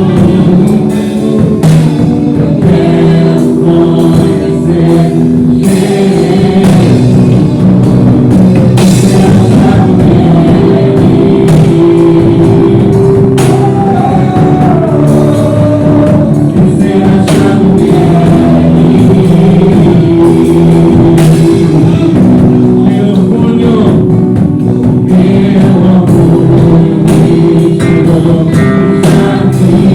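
Church worship band playing, with guitar and a drum kit under singing, loud and continuous.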